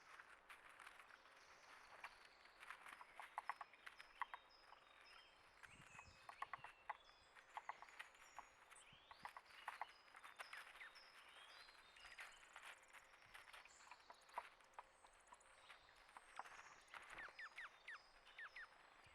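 Faint outdoor sounds of small birds: brief high chirps and twitters scattered throughout, with many quick little clicks and taps coming in short runs.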